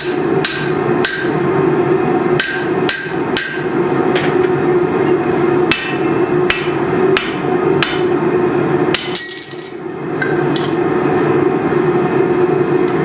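Blacksmith's hammer striking hot steel on an anvil, ringing blows at an uneven pace, with a quick run of light taps about nine seconds in before the hammering stops. A steady drone runs underneath.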